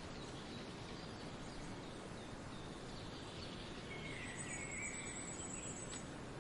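Outdoor field ambience: a steady background hiss with faint, scattered small bird chirps. About four seconds in comes a clearer bird call, with a thin, high trill lasting about two seconds.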